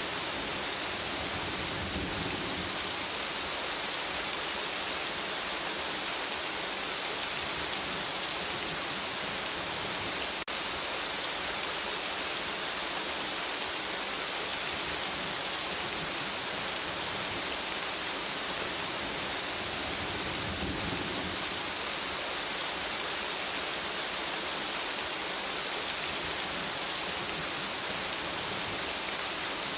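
Steady rain falling in a forest, a dense even hiss, with a brief low swell twice.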